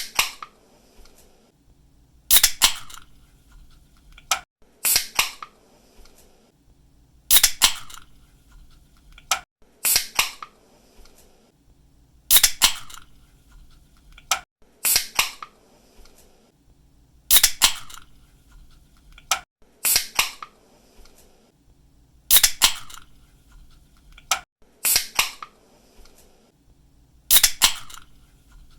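Soda or energy-drink can pull tab snapped open again and again, about every two and a half seconds. Each opening is a quick double click followed by a short fading hiss.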